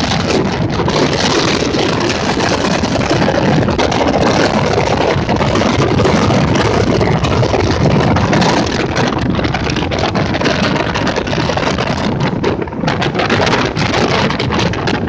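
Motorboat under way: the engine runs steadily under a loud rush of noise, easing slightly in the last few seconds.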